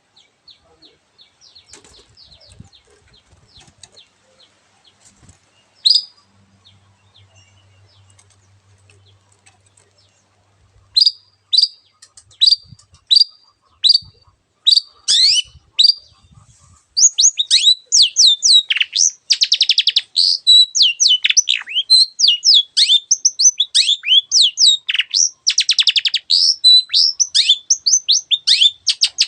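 Long-tailed shrike singing: faint scattered chirps with one loud note at first. From about 11 s it gives a string of sharp high notes, under a second apart. From about 17 s it breaks into fast, loud chattering with harsh rasping stretches.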